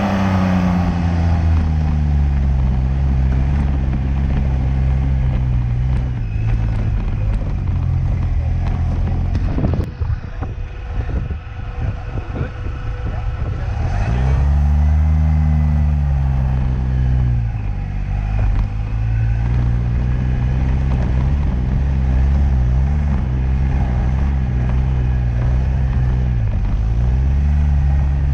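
Liege SS sports car's engine running under load, its revs rising and falling again and again. About ten seconds in it eases off briefly with a few knocks, then builds again.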